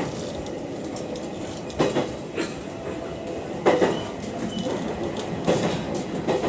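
Aoimori Railway 703 series electric train running at speed, a steady rumble of wheels on rail broken by several short knocks as the wheels pass over rail joints.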